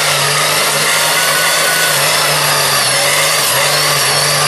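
Monster truck engines running hard at steady high revs, a loud unbroken drone with no let-up.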